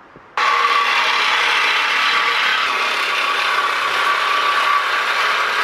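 A power tool starts abruptly and runs loud and steady at a constant pitch with a rattling, mechanical edge.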